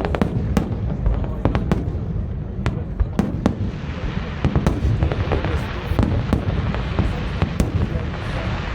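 Aerial fireworks display: a rapid, irregular series of bangs from bursting shells, with a continuous hiss joining in from about four seconds in.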